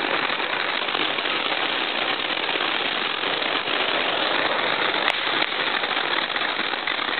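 Fireworks going off in a dense, unbroken crackle, many small pops merging into one steady rattle, with one sharper pop about five seconds in.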